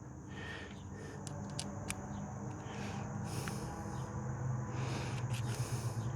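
Faint clicks and light taps of small metal parts being handled and fitted, over a low steady hum.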